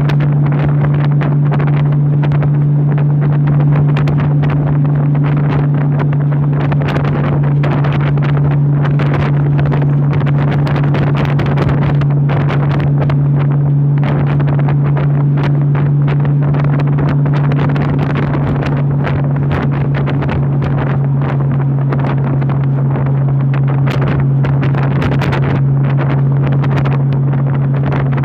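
Honda motorcycle engine running at a steady cruise of about 60 mph, holding one even droning pitch, with wind rushing and buffeting over the microphone in gusts.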